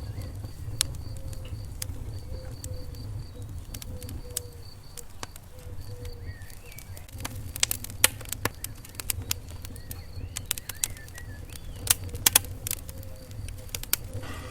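Wood fire in a fireplace crackling, with irregular sharp pops and snaps, a cluster of louder ones near the middle and again near the end, over a steady low rumble of the flames.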